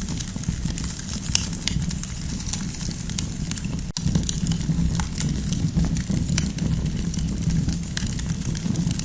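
Campfire crackling: a steady low rumble of burning with frequent small sharp pops and snaps scattered through it. A brief dip in the sound about four seconds in.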